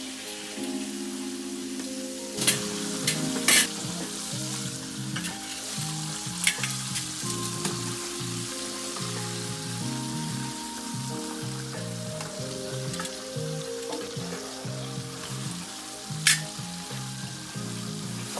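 Flour-dredged chicken pieces frying in a skillet of hot oil: a steady sizzle, broken by a few sharp clacks, the loudest a few seconds in and again near the end.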